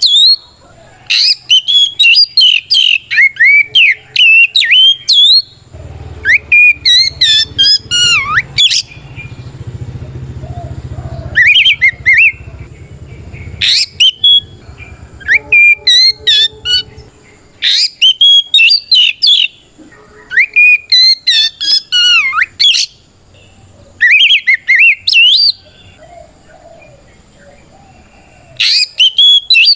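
Oriental magpie-robin (kacer) singing a loud, rapid, whistled fighting song in repeated bursts of a second or two with short pauses. This is the full-voiced 'ngeplong' song by which a male calls out a rival. A low rumble sits underneath through the middle.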